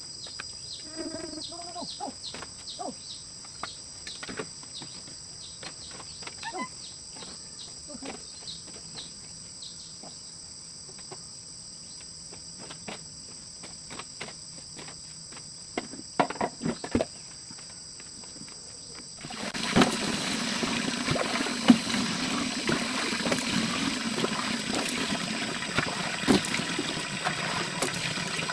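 Insects chirping in a steady high drone, with scattered small clicks and knocks of handling. About two-thirds of the way in, the sound of water running or pouring starts suddenly and continues steadily.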